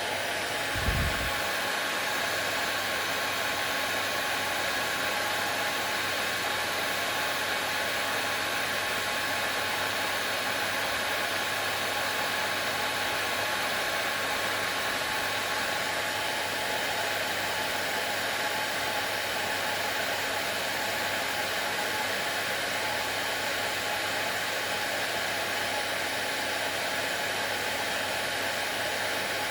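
Hair dryer running steadily: an even whooshing hiss with a faint steady whine. A brief low thump comes about a second in.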